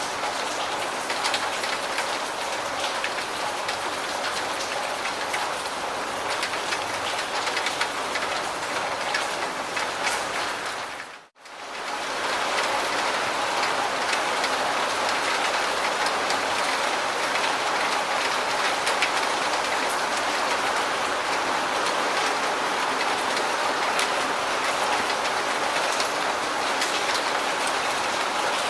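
Steady rain falling on a surface, with scattered single drops ticking through it. About eleven seconds in it dips out for a moment, then comes back a little fuller.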